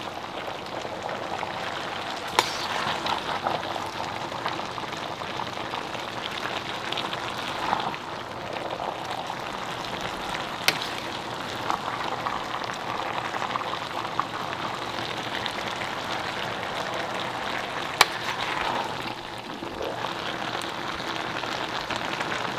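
Chicken, peanut and vegetable stir-fry sizzling steadily in a frying pan, with three sharp pops spread through.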